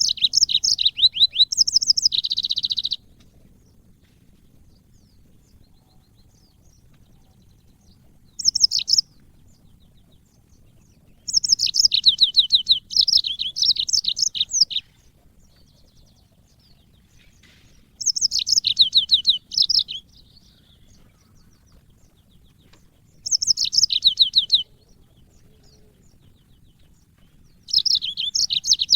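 Yellow-fronted canary (Mozambique bird) singing: short bursts of fast, high, repeated trilling notes, each lasting from about half a second to three seconds, coming every few seconds with pauses between.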